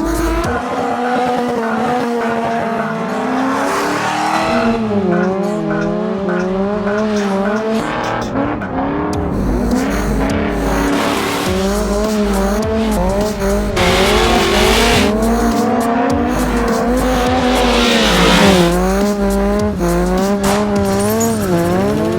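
Engines revving up and down again and again during drifting, with tyres squealing and skidding in bursts about two-thirds of the way through, over background music.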